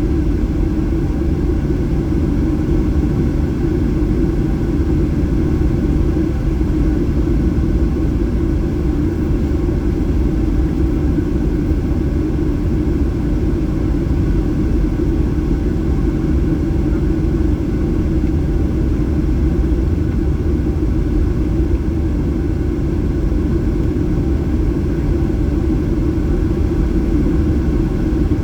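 Cabin noise of a Boeing 737-800 in flight, its CFM56 engines running steadily under power: a loud, even low rumble with faint steady engine tones above it.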